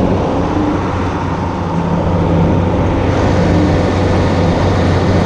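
Diesel engine of a farm machine running steadily at close range, a low, even hum with no change in speed.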